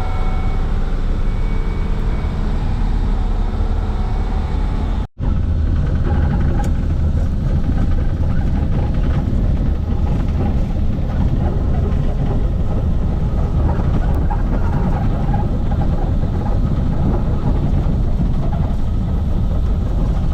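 Converted school bus on the move: steady low engine and road rumble. It cuts out for a split second about five seconds in.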